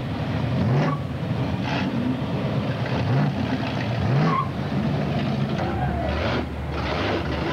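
Engines of cruising cars running and being revved in short rising blips, several times, over a steady din of crowd voices.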